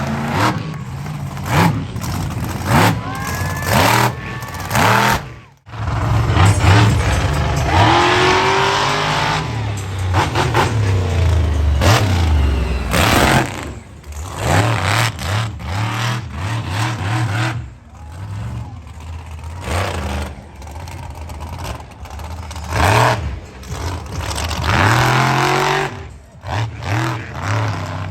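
Monster truck engine revving hard and dropping back again and again, a deep engine note that climbs and falls with the throttle.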